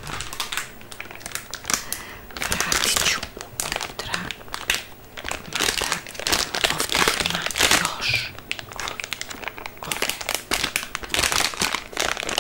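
Crinkling and crumpling of some crinkly material handled close up, a dense run of irregular crackles that swells louder in several waves.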